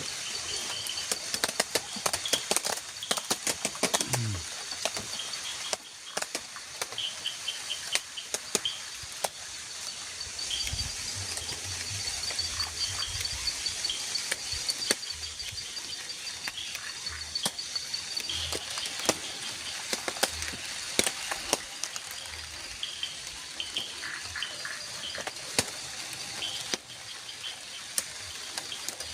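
Raindrops tapping irregularly on a shelter's plastic tarp roof over a steady high chirring of forest insects, with a low rumble from about ten seconds in that lasts a few seconds.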